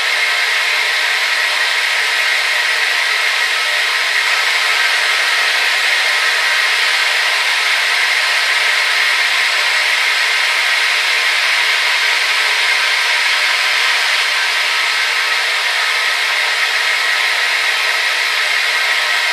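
Hair dryer running steadily: a continuous airy whoosh from its fan with a faint motor whine, strongest in the upper middle, unchanging throughout.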